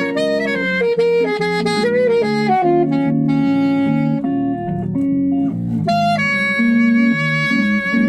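A saxophone plays the melody over guitar and bass accompaniment. About six seconds in, the saxophone settles on one long held note.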